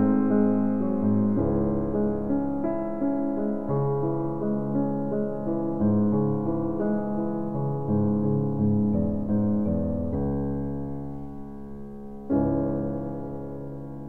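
Background piano music, notes changing every second or so, fading a little before a louder chord about twelve seconds in.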